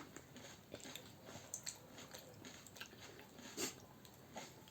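Faint chewing and eating sounds of people eating chicken biryani and kebab: soft irregular mouth clicks and smacks, with one sharper click about three and a half seconds in.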